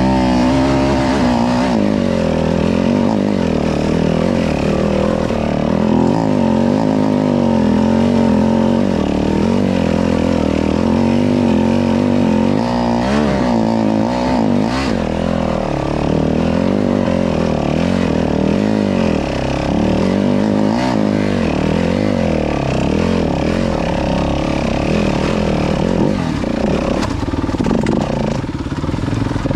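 Four-stroke dirt bike engine being ridden, its pitch rising and falling again and again as the rider opens and closes the throttle and shifts.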